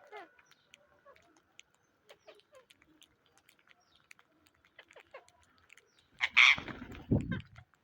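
Indian ringneck parrots making soft chirps and clicks. About six seconds in comes one loud, harsh call lasting just over a second.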